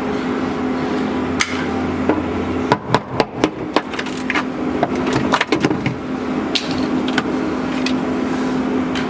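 Irregular sharp knocks, with a quick run of them about three seconds in, as a hammer and chisel chip dry-ice-frozen old sound deadening off the steel floor of a 1973 BMW 2002; frozen, the tar mat breaks up easily. A steady hum runs underneath.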